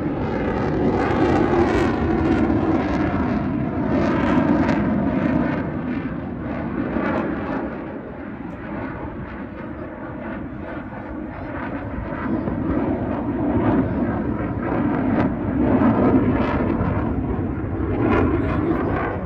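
Airplane engine flying past, the sound swelling, easing off in the middle and swelling again near the end.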